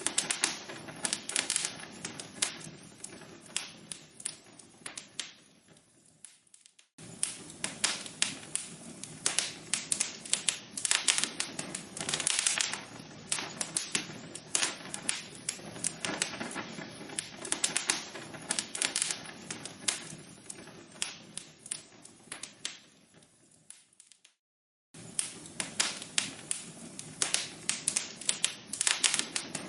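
Wood fire crackling: burning logs in a fireplace giving off a dense, irregular run of sharp pops and snaps. Twice the sound fades to silence and cuts straight back in, about seven seconds in and near the end.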